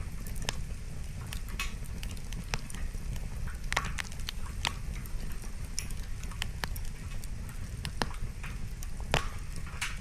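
Wood campfire crackling: firewood snapping and popping in irregular sharp clicks, a few each second, over a steady low rumble.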